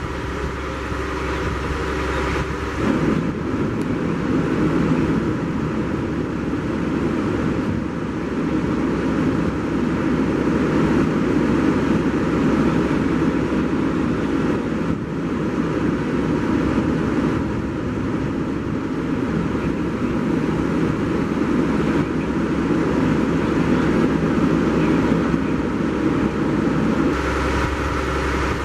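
Motor vehicle engine running steadily. It has an even hum for the first few seconds and again near the end, and a rougher, noisier rumble through the middle.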